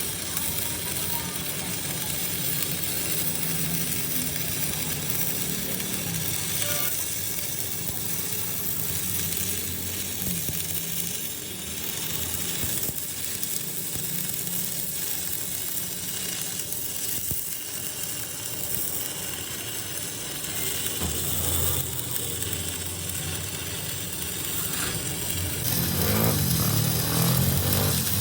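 Steady mechanical noise with a strong hiss and a low hum, like workshop machinery running, getting louder near the end.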